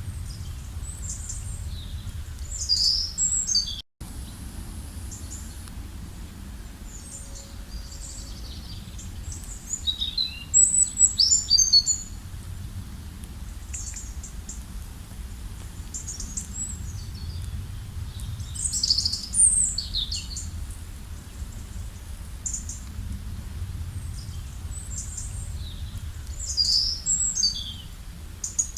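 Several songbirds singing in short, high chirping and trilling phrases every few seconds, loudest around ten to twelve and eighteen to twenty seconds in, over a steady low rumble. The sound cuts out briefly about four seconds in.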